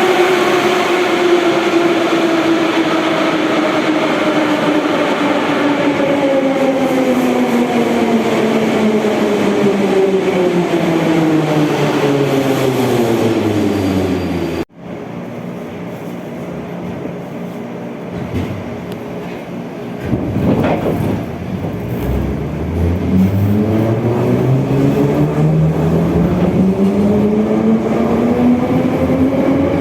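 Moscow Metro train's electric traction motors whining steadily down in pitch as the train brakes. After a sudden cut halfway through, a train's motors whine up in pitch as it pulls away, rising for the last ten seconds.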